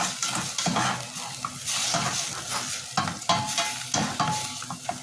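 Chicken sizzling as it fries in a pan, stirred with a utensil that scrapes and knocks against the pan again and again, with a couple of short ringing clinks near the end.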